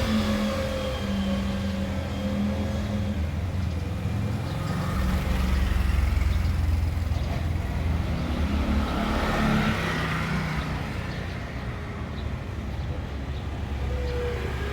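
Motor vehicle engine running on a nearby road, its hum rising and falling in pitch as it passes.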